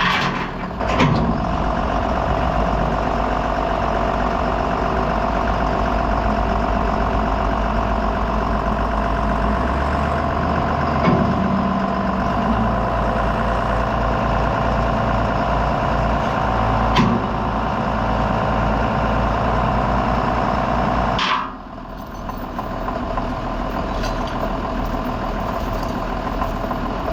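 Farm tractor and forage chopper running loud and steady, with a few brief knocks. About 21 seconds in the sound drops suddenly, and a quieter engine keeps running.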